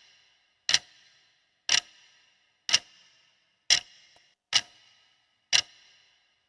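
Countdown timer sound effect of a clock ticking: one sharp tick about every second, each with a brief ringing tail, marking the answer time on a quiz question.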